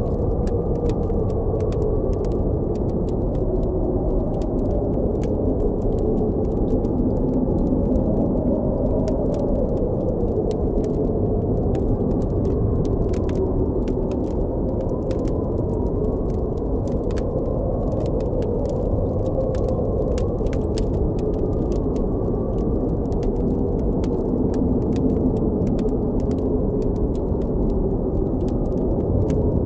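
Blizzard wind blowing and howling steadily, its low whistle slowly wavering in pitch, with a campfire's scattered small crackles and pops over it.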